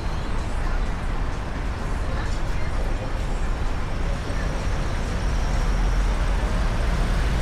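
Street ambience dominated by steady road-traffic noise with a low rumble, and faint voices in the background.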